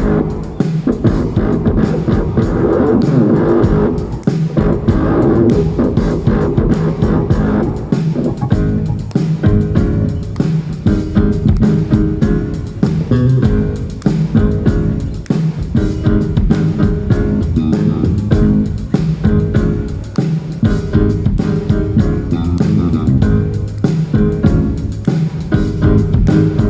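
Rock band playing an instrumental passage: guitars and bass guitar over a steady drum beat, with no vocals.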